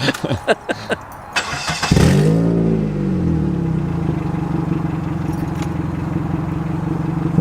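A few clicks, then a car engine is cranked and catches about two seconds in. It revs briefly and settles into a loud, steady, deep idle through a broken exhaust.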